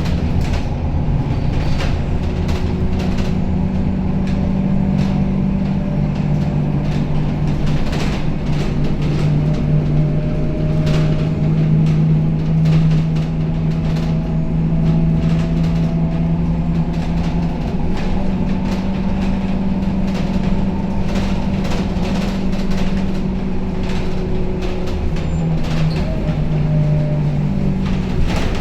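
Scania K270UB city bus's diesel engine running under way, heard from inside the cabin, its drone shifting in pitch a little as it goes, with frequent rattles and clicks from the bus body.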